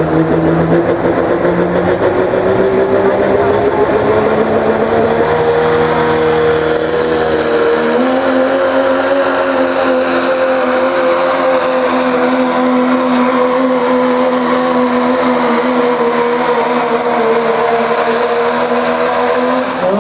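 Diesel pickup truck engine at full throttle pulling a sled, its revs climbing steadily for the first several seconds, then held high and steady until it lets off near the end.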